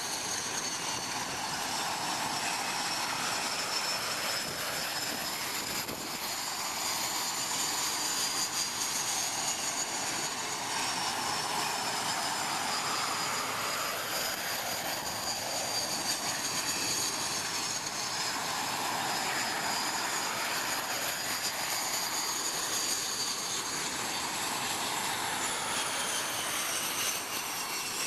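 Aircraft engine noise: a steady rush with several high whining tones that slide down slightly near the end.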